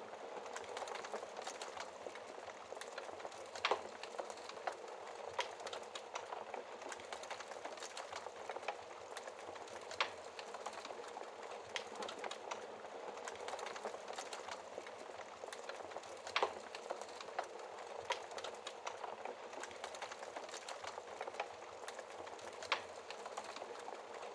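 Wood fire crackling in a fireplace: a steady hiss of flames with frequent small pops and a few louder snaps.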